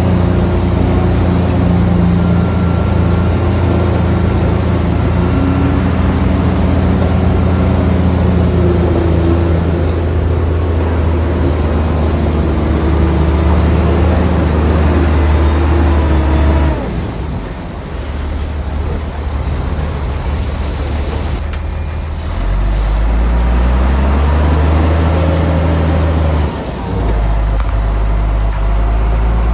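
Heavy diesel engine of a construction machine running hard. It eases off about halfway through, then revs up again with a rising pitch and dips briefly near the end.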